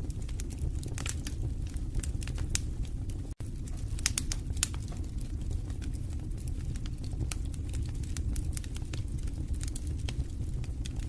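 Fire burning in a fireplace, crackling with irregular sharp pops over a steady low rumble of the flames. The sound cuts out for an instant about three seconds in.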